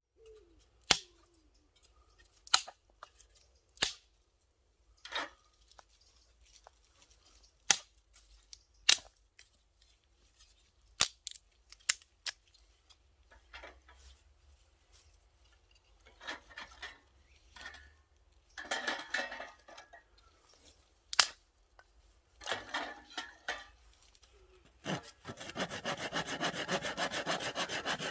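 Dry sticks snapping with sharp single cracks, then a hand saw cutting through wood in quick, steady strokes from about three-quarters of the way through, to gather fuel for a small wood-burning camp stove.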